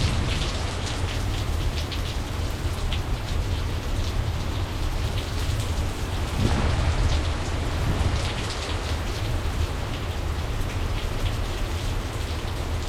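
Heavy rain falling in a thunderstorm, with a dense patter of close drops hitting surfaces over a low, continuous rumble. It swells briefly about six and a half seconds in.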